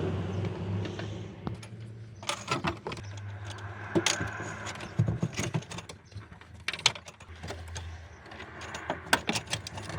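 Scattered metallic clicks, clinks and knocks of tools and parts being handled during hands-on car repair work, over a low steady hum that stops about eight seconds in.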